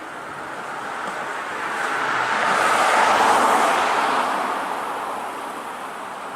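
A road vehicle passing by, its tyre and road noise swelling to a peak about three seconds in, then fading away.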